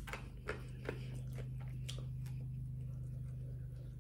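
Close-miked chewing of fried pork chop: a scatter of short wet mouth clicks and crunches, most of them in the first couple of seconds, over a steady low hum.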